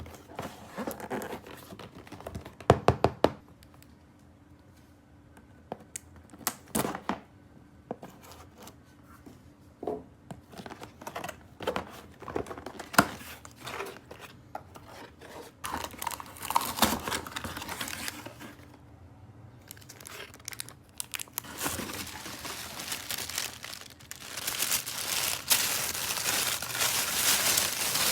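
Plastic toy packaging being crinkled and torn open, with scattered sharp clicks and taps; the crinkling grows louder and continuous near the end.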